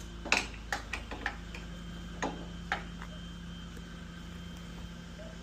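Recovery truck's engine idling with a steady hum, while about six sharp, irregular clicks and knocks sound in the first three seconds.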